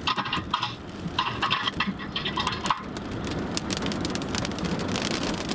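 Heavy thunderstorm rain, a steady hiss with many sharp spattering hits of drops.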